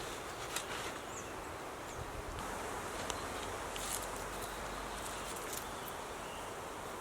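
Forest ambience: a steady background hiss with a few faint clicks and some short high chirps.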